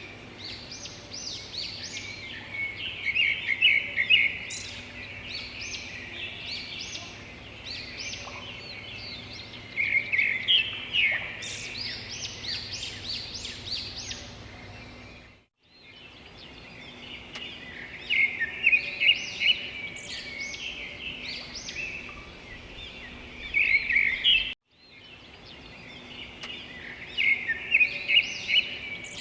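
Many small birds chirping and singing at once, a dense chorus of quick high notes and trills with louder flurries every few seconds. The sound drops out abruptly twice, for a moment each time.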